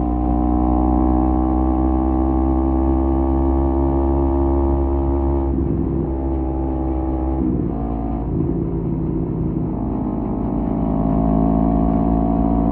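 Kawasaki Z250 parallel-twin engine through a SeaPro aftermarket muffler, cruising at a steady engine speed. About six seconds in the note breaks up and drops as the throttle eases, then rises back to a steady cruise a few seconds later.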